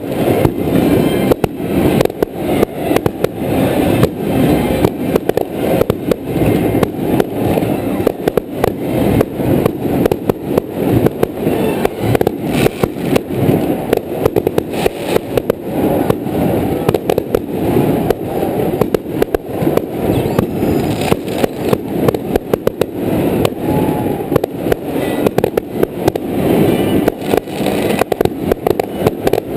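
Fireworks display: aerial shells bursting in quick succession, a dense run of bangs, several a second, with hardly a pause.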